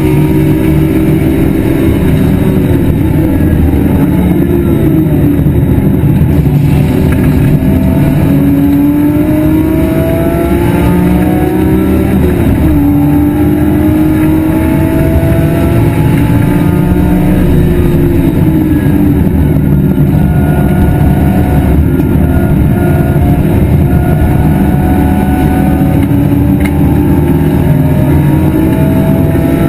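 BMW E46 M3 race car's straight-six engine at full throttle on track, rising in pitch through each gear and dropping back at the shifts, over steady road and wind noise.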